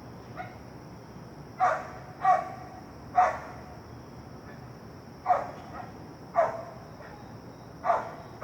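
A dog barking from an apartment balcony: six sharp, loud barks at uneven gaps, about a second apart, after one faint bark near the start. A steady high-pitched whine runs underneath.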